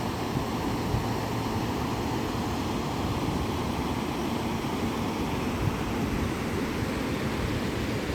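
River in flood, its fast water rushing with a steady, even noise.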